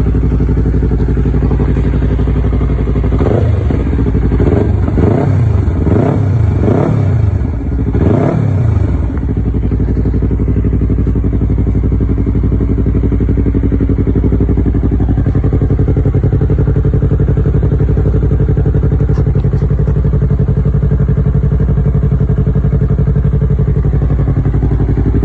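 Yamaha YZF-R3's parallel-twin engine through a Yoshimura R-77 exhaust, idling, given several quick throttle blips between about three and nine seconds in, each rising and falling in pitch, then settling back to a steady idle.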